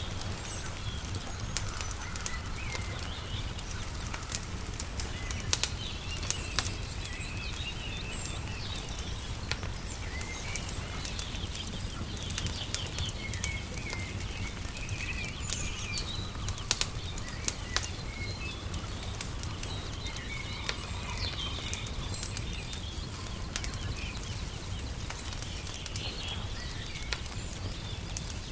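Wood fire crackling, with scattered sharp pops, against a steady low rumble. Small birds chirp repeatedly throughout.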